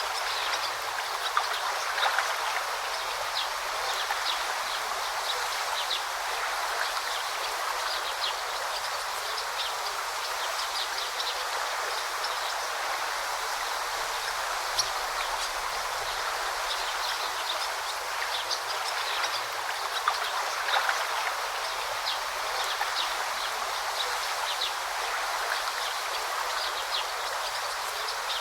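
Forest stream babbling steadily, with many brief high bird chirps scattered over the water sound.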